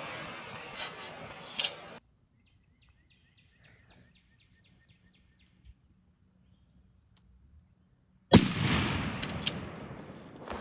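A single shotgun shot at a turkey about eight seconds in: a sharp, loud blast with a long echo dying away. Before it comes a stretch of rustling noise with two small clicks, then near silence.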